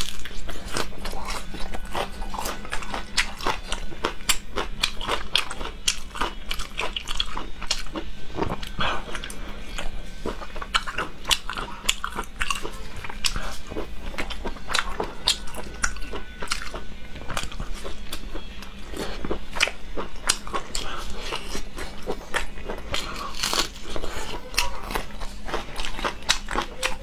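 Close-miked chewing and crunching of food: a dense, irregular run of sharp crunches and mouth clicks.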